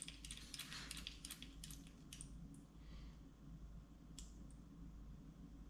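Faint clicks and light handling noises from setting up a hand tool on a metal fuel line: several close together in the first two seconds and one sharper click near the end, over a steady low hum.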